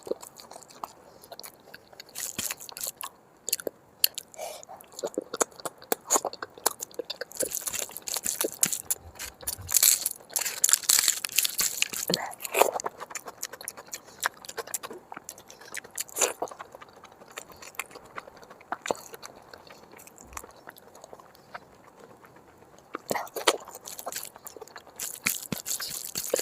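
Close-miked eating sounds of a person biting and chewing big mouthfuls of mutton fat curry and rice, heard as clusters of sharp, wet clicks that come and go. They are loudest about eight to twelve seconds in and again near the end.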